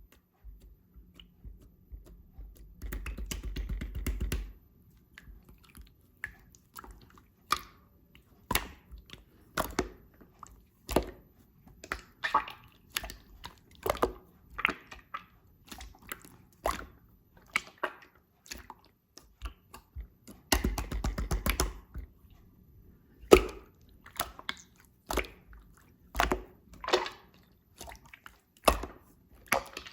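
Slime being squeezed and stretched by hand, giving sharp wet clicks and pops about once a second. Twice, a few seconds in and again about two-thirds through, it makes a longer crackling stretch of about one and a half seconds.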